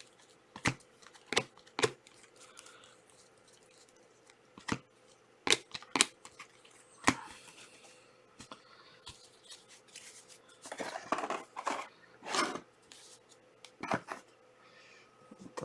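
Trading cards and card packs being handled at close range: a run of sharp clicks and snaps, then a few seconds of crinkling and rustling about eleven seconds in.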